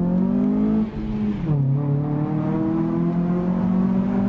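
2006 Honda Civic FD's K20 2.0-litre four-cylinder engine accelerating hard, heard from inside the cabin. The engine note climbs, drops at an upshift about one and a half seconds in, then climbs steadily again.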